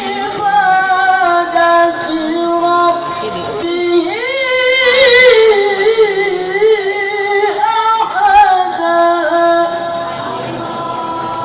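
A child qari chanting Quran recitation in the melodic tilawah style: long held notes with ornamented runs that rise and fall, and a loud upward-sweeping phrase a little past the middle.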